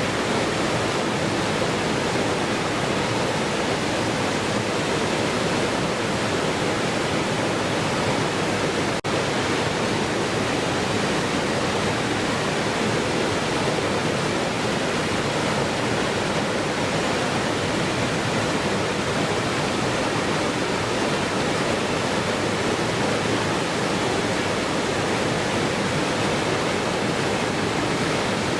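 Waterfall: a steady, even rush of falling water, with a brief drop-out about nine seconds in.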